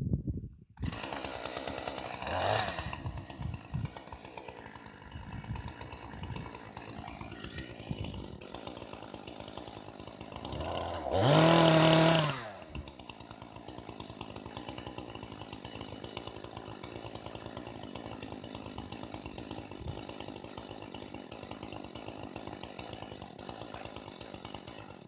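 Two-stroke chainsaw catching about a second in and running, revved up once about halfway through, then idling until it stops abruptly at the end. The owner says it won't hold idle, after sitting since last season.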